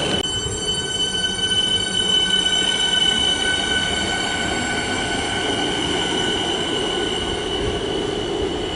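Siemens Nexas electric suburban train with a steady high-pitched whine over a low rumbling noise, easing slightly near the end.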